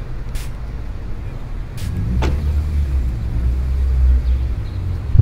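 Low, steady rumble of a car engine, growing louder about two seconds in and easing off near the end, with a couple of faint clicks.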